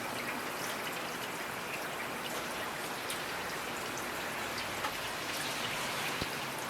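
Steady rainfall with individual drops pattering on a surface.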